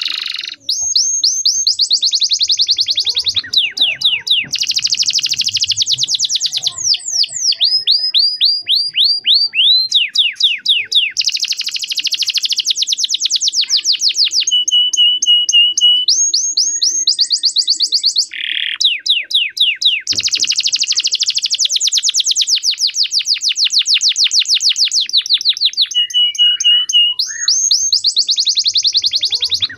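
Male domestic canary singing a long, loud song: fast runs of the same sweeping note repeated many times a second, the note changing every second or two, with a few short pauses and two brief steady whistles.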